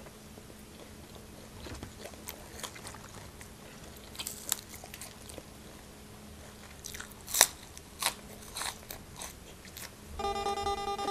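Close-up crunching and chewing of crisp raw green vegetable, a run of sharp crunches with the loudest bites about seven seconds in. Acoustic guitar music starts near the end.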